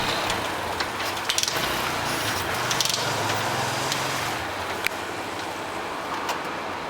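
Steady outdoor background noise with a few sharp clicks, and a low hum that comes in about a second and a half in and fades by about four and a half seconds.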